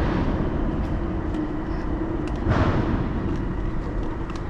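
Loud, steady rumble of highway traffic on the I-480 bridge overhead, with one vehicle passing by louder about halfway through.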